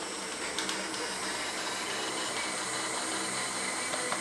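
Electric drill running steadily, a constant motor whine with hiss.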